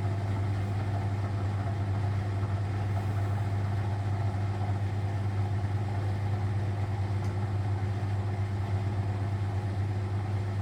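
Vintage Frigidaire Super Deluxe Automatic 50 front-loading washing machine running as it fills with water mid-cycle: a steady low hum with an even hiss over it.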